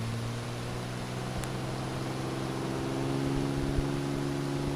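Cessna 206's piston engine and propeller at takeoff power, heard inside the cockpit: a steady drone whose pitch creeps up slightly in the first couple of seconds as the takeoff roll begins.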